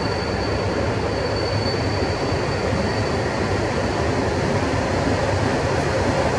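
PKP Intercity EP09 electric locomotive hauling a passenger train slowly into a station: a steady rumble of wheels on rail that grows slightly louder as it nears. A thin, high steady tone fades out in the first half.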